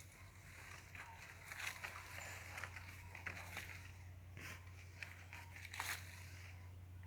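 Small birds feeding at a food spot: faint, scattered short crackles and clicks, several in quick succession, over a low hum.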